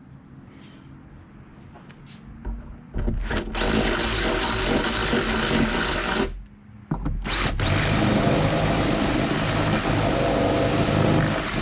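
Power drill boring a mounting hole for a rear wing: it runs steadily with a high whine for about three seconds, stops briefly, then runs again for about four and a half seconds. Light handling knocks come before it starts.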